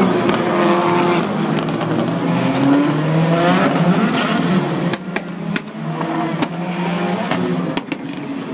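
Rallycross supercars racing, their engines revving up and down in pitch, with a string of sharp cracks in the second half.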